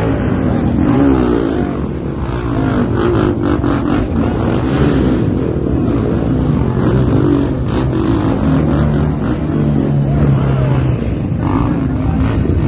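Off-road vehicle engine running hard, its pitch rising and falling as the throttle is worked, steadying for a couple of seconds near the end.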